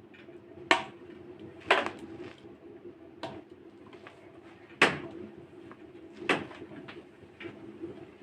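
Wood fire crackling in a fireplace: irregular sharp pops and snaps, five loud ones a second or more apart among fainter crackles.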